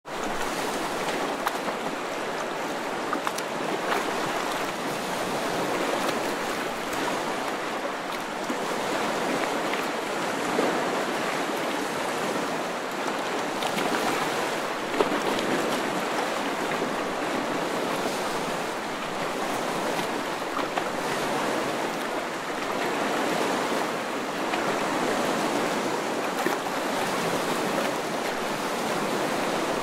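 Moving water rushing steadily, with small splashes and drips scattered through it.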